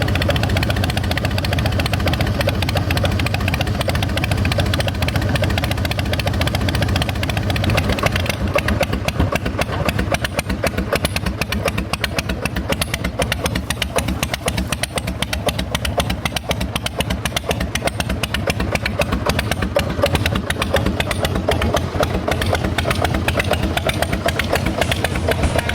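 Harley-Davidson Softail Custom's air-cooled Twin Cam 88 V-twin running steadily through Vance & Hines exhaust pipes, a rapid, even train of exhaust pulses with a strong low end.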